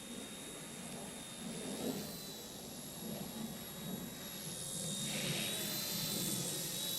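RC ERA C138 Bell 206 1/33-scale electric RC helicopter in flight: a steady high motor whine that steps up slightly in pitch about two seconds in and again past four seconds, growing louder in the second half, over a low rumbling noise.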